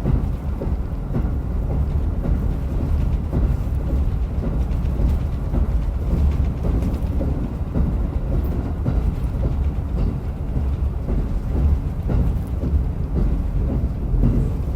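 Running noise heard inside a diesel railcar: a steady, deep rumble of the engine and wheels on the rails.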